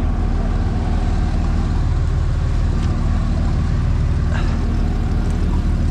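Four-wheel-drive truck's engine idling with a steady low hum while the truck sits stopped on the obstacle.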